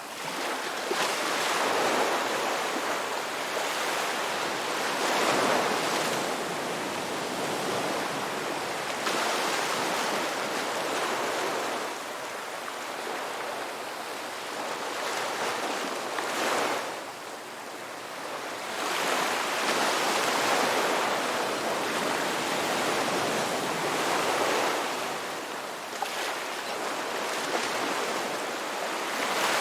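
Ocean waves breaking and washing up on a beach, the surf swelling and falling back every few seconds.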